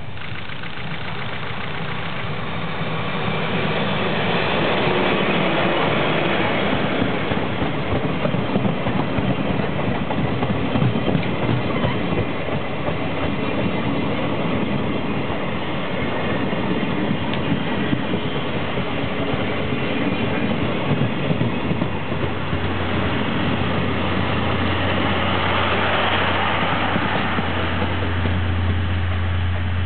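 A passenger train passing close by, its wheels rumbling and clicking over the rail joints, building up over the first few seconds. A steady low hum grows louder in the last several seconds.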